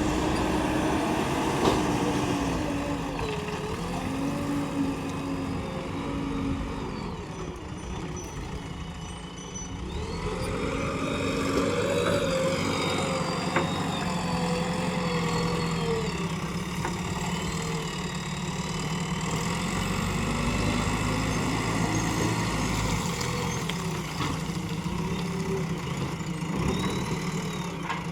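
JCB 3DX backhoe loader's diesel engine working, its pitch rising and falling as it is revved up and down under load, dipping about a third of the way in and then swelling louder.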